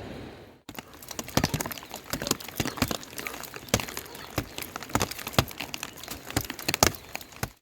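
Rapid, irregular sharp taps and clicks, several a second, with some louder knocks among them.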